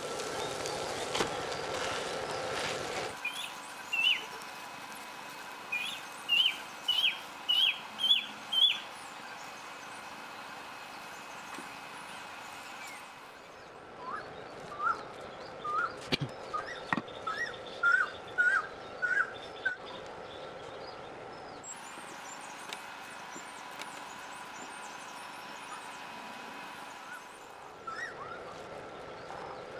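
A bird calling in runs of short, rising chirps, two or so a second. A second run near the middle is lower in pitch. A steady faint hum sits underneath.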